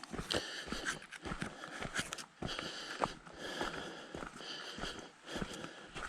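A hiker breathing hard, about one breath a second, heard close to the microphone, with footsteps on the trail as short sharp steps between the breaths.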